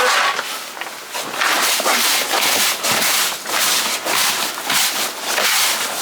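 Hand digging in soil and stony rubble on an old cottage floor: repeated gritty scraping strokes, about two a second and unevenly spaced.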